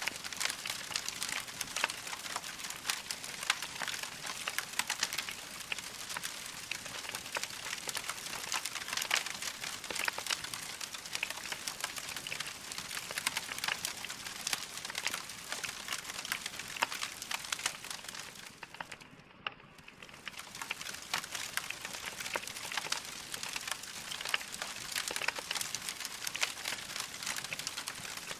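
Wood fire crackling steadily, a dense run of small pops and snaps over a soft hiss. The sound briefly drops away about nineteen seconds in, then resumes.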